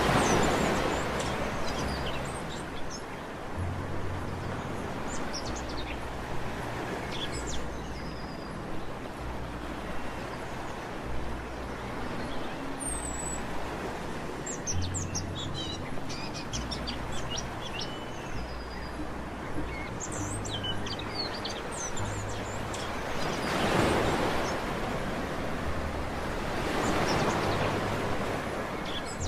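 Sea waves washing onto a beach, swelling louder near the start and twice near the end, with small birds chirping in quick high calls in the middle stretch.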